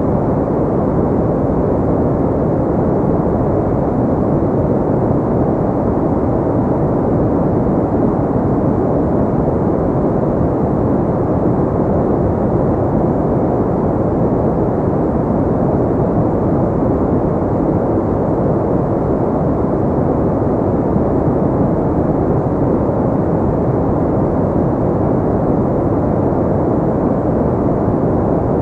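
Steady pink noise: an even, deep rushing hiss with no changes, weighted toward the low and middle range and with little treble.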